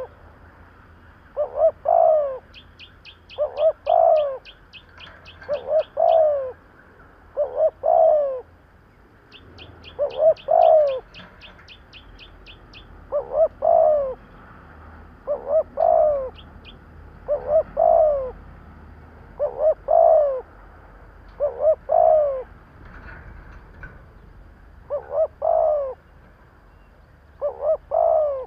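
Spotted dove cooing over and over, a short two-note coo phrase about every two seconds. This is the quick-paced "thúc" calling that keepers play to rouse decoy doves. Two runs of a smaller bird's rapid high chirps come in the first half.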